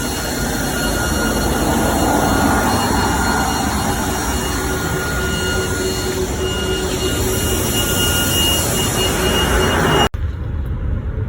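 5G cell tower equipment whistling and humming steadily: a broad rushing drone with several high whistling tones held over it, like a jet at an airfield. About ten seconds in it gives way abruptly to a lower, duller rumble.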